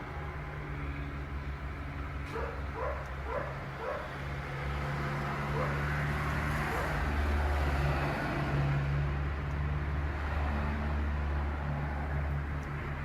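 Steady vehicle engine hum, with a dog giving a quick run of about five short yelps a couple of seconds in.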